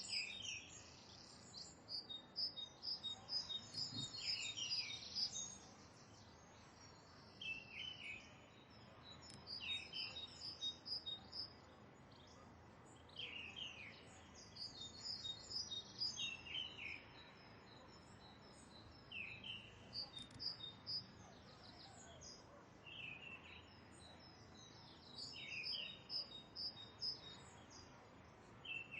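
Birds calling: a short call that drops in pitch repeats every two to three seconds, among bouts of rapid high chirps, over a faint outdoor hiss.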